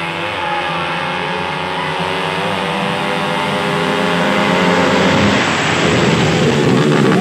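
Small four-stroke racing motorcycles (a Yamaha Vega and a Suzuki Satria FU) running flat out, engines revving hard with the pitch rising and dipping, growing louder over the last few seconds as they close in.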